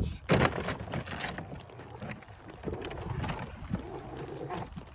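Rain and wind noise on the microphone, with a sharp knock just after the start and scattered knocks and rustles through the rest.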